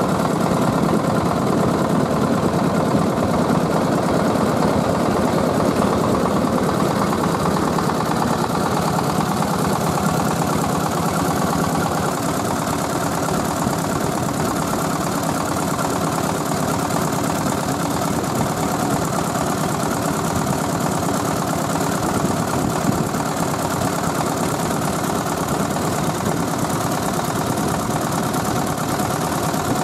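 The 24 PK Tiger single-cylinder diesel engine of a mobile rice-milling machine running steadily, dropping slightly in loudness about twelve seconds in.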